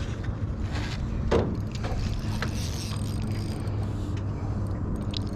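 Steady low rumble, likely wind on the microphone, over a faint low hum, with a few light clicks.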